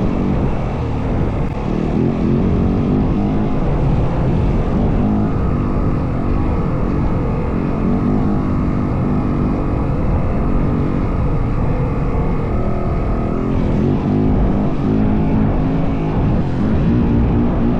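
Yamaha WR450F single-cylinder four-stroke dirt bike engine running under way, its pitch rising and falling as the throttle is worked.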